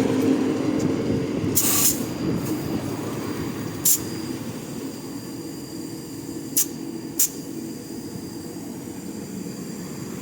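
Steady rumble of a heavy truck's engine running, with a few short sharp clicks over it.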